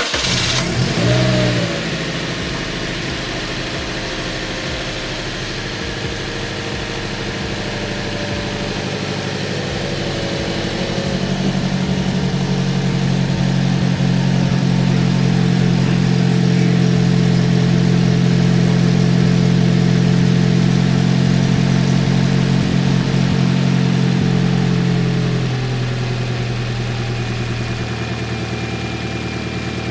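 Freshly swapped replacement engine in a Toyota Corolla starting for the first time: it fires up at once with a brief rev about a second in, then settles into a steady idle. Partway through, the idle climbs and runs higher and louder for about a quarter of a minute, then drops back to a lower idle.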